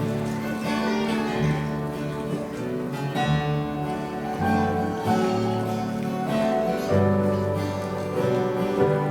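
Worship music played by a band, led by guitar, with held chords over a bass line that changes note about every second or two; no singing stands out.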